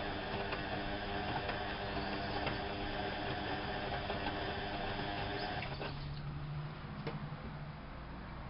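Whirlpool AWO 5346 front-loading washing machine's drum motor running, with light ticks about once a second. The motor stops about six seconds in, leaving a low hum.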